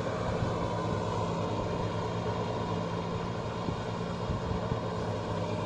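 Kubota 5501 tractor's diesel engine running steadily under load while it drives a rotavator through mud, with a constant low hum and a broad wash of machine noise.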